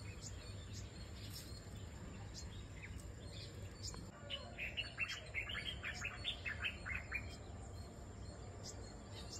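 A small bird chirping a quick run of short high notes for about three seconds in the middle, over a steady low background hum.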